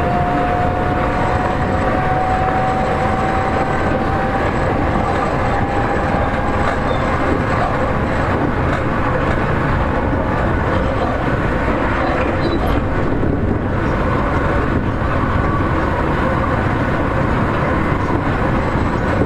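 Seibu 40000-series electric train running between stations, heard from inside the car: a steady rumble of wheels and running gear. Over it, the thin whine of the Toshiba permanent-magnet synchronous motor drive rises slowly in pitch and fades out about seven seconds in.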